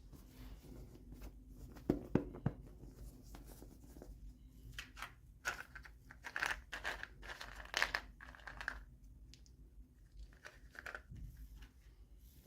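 Toy packaging being torn open and crinkled by hand. A few sharp clicks come about two seconds in, then a run of crinkling and tearing through the middle, with a little more near the end.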